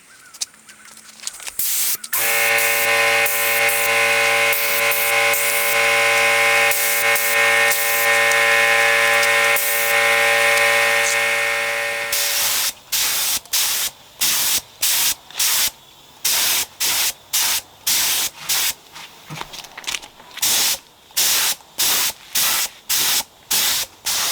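Finish being sprayed onto wood. A continuous spraying hiss with a steady hum under it lasts about ten seconds, then gives way to short spray bursts repeating roughly once a second.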